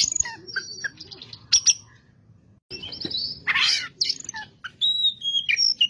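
Oriental magpie-robin (kacer) singing: quick varied whistled phrases and chirps, with a brief pause about two seconds in and a harsh raspy call about three and a half seconds in. A competitive kacer song played to provoke a pet kacer into singing.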